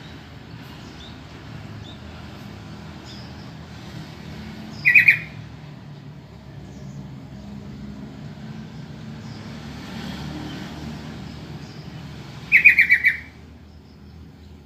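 Yellow-vented bulbul giving two short bursts of rapid chattering call notes, one about five seconds in and one near the end, over a steady low background rumble.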